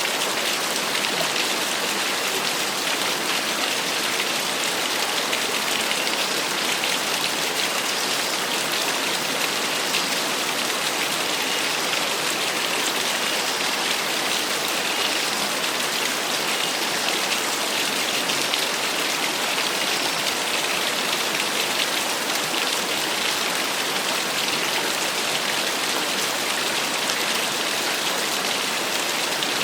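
Small waterfall: a steady, unbroken rush of falling and splashing water, mostly a high hiss with little low rumble.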